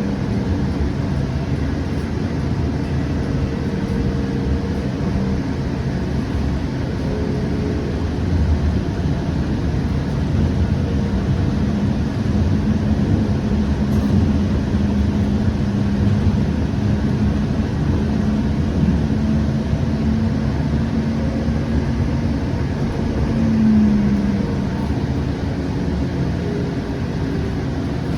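Steady interior noise of a Siemens S700 light rail car, with a low electric hum from its drive or equipment that wavers in pitch about three quarters of the way through.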